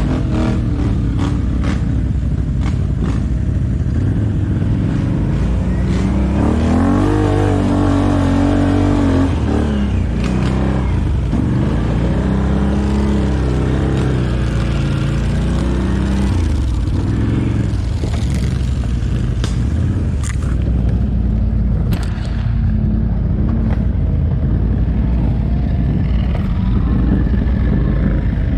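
ATV engine running hard, its pitch rising and falling as the throttle opens and closes, with a few knocks from the machine over rough ground.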